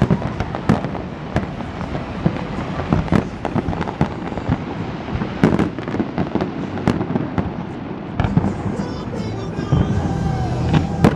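Aerial fireworks going off in a continuous display: irregular sharp bangs from shell bursts, sometimes several a second, over a steady low rumble of further bursts.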